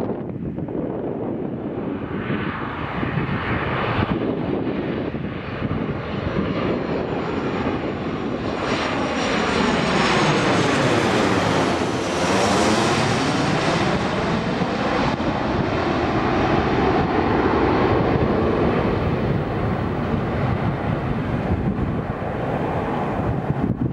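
Boeing 737-800's jet engines passing close by on landing approach. The engine noise swells to its fullest around the middle, with a whooshing sweep that falls and then rises in pitch as it goes over, and then trails off.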